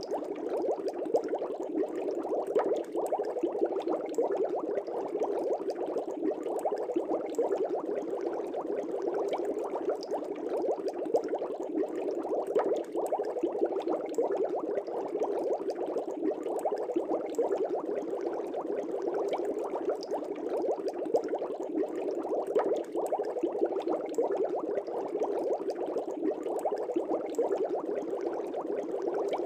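Air bubbles rising and breaking in a fish tank: a steady, dense bubbling with the odd louder pop.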